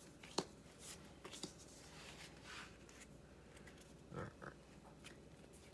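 Faint, sparse handling sounds of Pokémon trading cards: a few sharp little clicks and short soft rustles as cards are slid and flicked. A brief louder low sound comes about four seconds in.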